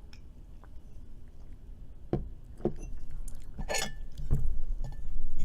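Scattered clicks and light knocks of tableware and food being handled while eating, with a short scraping or rustling burst a little past the middle.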